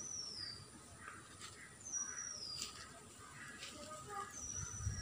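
A bird's thin, high whistle falling in pitch, repeated about every two seconds, over faint scattered chirps.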